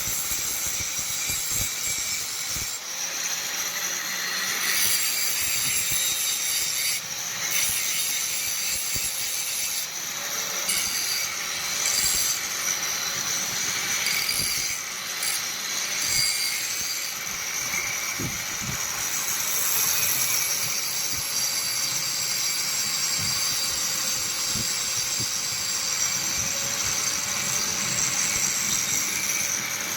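Electric grinder working steel: a steady motor tone under a continuous high rasping hiss as the blade is shaped.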